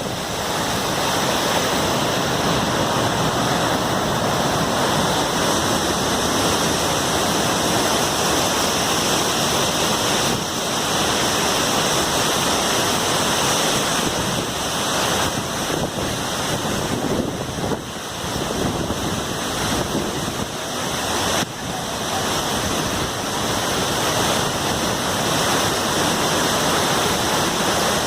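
Large waterfall thundering steadily: a loud, even rush of falling water, with some wind buffeting the microphone.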